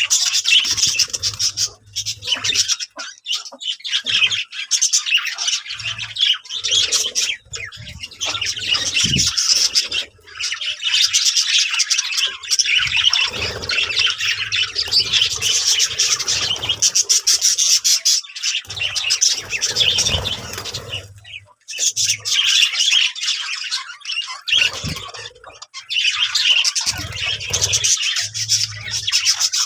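A flock of budgerigars chattering, chirping and squawking together in a dense, continuous din, which dips briefly a few times.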